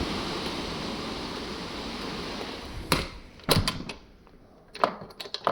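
Steady rain, which cuts off about three seconds in with a sharp knock, followed by several more clicks and knocks.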